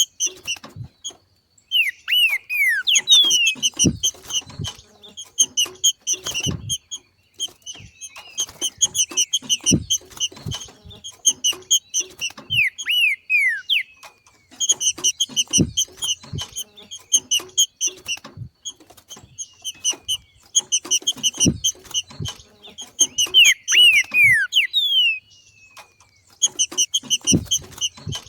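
Trinca-ferro (green-winged saltator) giving its 'macheado' call: bouts of rapid, evenly repeated chattering notes, a second or two each, with gaps between them and a few quick down-slurred whistles mixed in. Short dull thumps come now and then between the notes.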